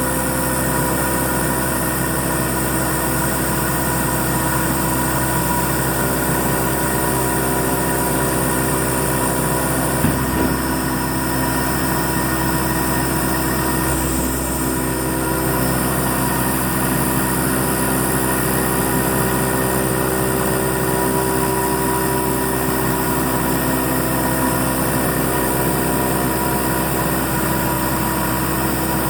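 Hurco MB-1 CNC milling machine running while it mills letters: a steady machine hum with several whining tones from the spindle and drives. There is a brief knock about ten seconds in, and the tones shift slightly a few seconds later.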